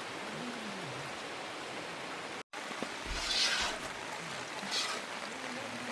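Steady hiss of heavy rain, broken by a split-second gap about halfway through, then a couple of short louder hissing bursts.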